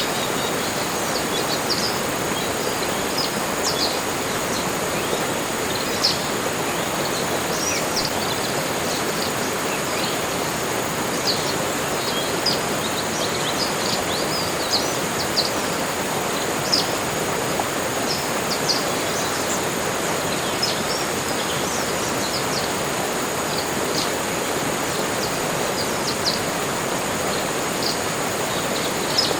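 Tropical forest ambience: a steady rushing background with a thin high whine held throughout, and short high-pitched bird chirps scattered every second or so.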